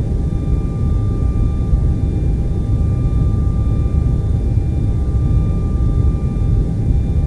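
Steady TV static noise, heavy in the low end, with a few faint steady tones above it.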